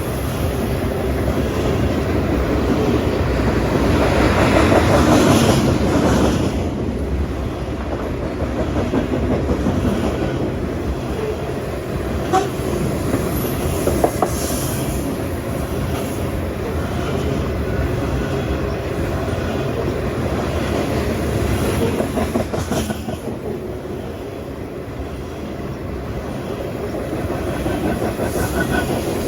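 Freight train of tank cars rolling past, the steel wheels clacking over the rail joints in a steady rumble. Two sharp clanks come about halfway through.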